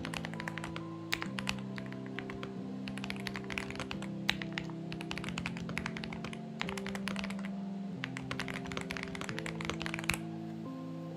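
Typing on a Xinmeng X98 mechanical keyboard: quick runs of key clacks with short pauses, stopping about ten seconds in. Soft background music with slowly changing chords plays underneath.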